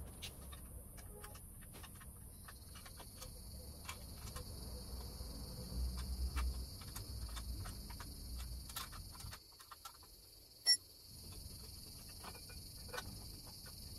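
Steady high-pitched insect chirring, joined by a second, lower-pitched chirring about two seconds in, with scattered light clicks.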